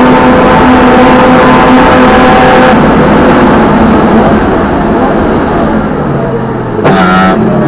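BMW E30 325i race car's straight-six engine heard from inside the cabin, held at high revs, then lifting off about three seconds in, its note dropping as it winds down. Near the end a brief sharp rise in revs, then it pulls again at a lower, steady pitch.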